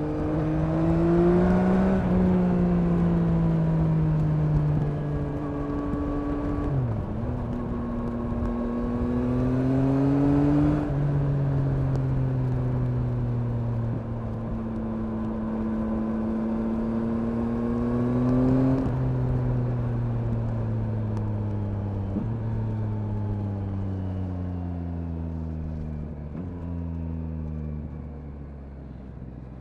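2021 Yamaha MT-09's three-cylinder engine pulling through the gears, rising in pitch under throttle several times and falling back between pulls. Near the end it winds down in a long slow fall and gets quieter as the bike slows.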